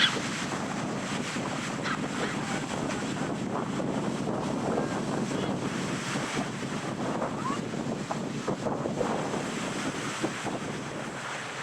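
Ocean surf washing steadily on a sandy beach, with wind rumbling on the microphone.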